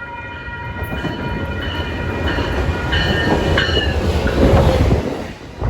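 A train passing close by. A horn chord sounds and fades over the first couple of seconds, then the rumble of the train and its wheels grows louder, loudest about four and a half seconds in.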